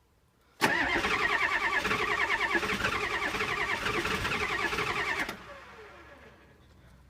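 Ford 7.3-litre V8 diesel being cranked by its starter in a cold start, an even rhythmic chugging that starts suddenly and cuts off after about four and a half seconds without the engine catching. It is cold after two weeks sitting, and the owner blames bad glow plugs or the glow plug controller.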